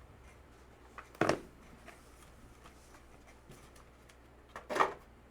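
Two brief handling noises, about three and a half seconds apart, over a low steady room hum.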